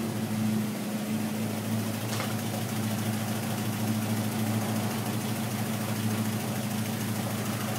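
1966 Hillman Gazelle's four-cylinder engine idling steadily on its newly fitted Megasquirt electronic fuel injection, which the owner says runs smoother than it did on the old Weber carburettor.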